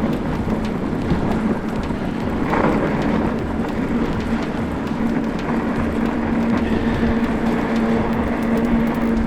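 Riding a Lectric XPeak fat-tire e-bike through snow: a steady rumble of wind and blowing snow on the microphone. Under it runs the steady hum of the bike's electric hub motor, stronger in the second half.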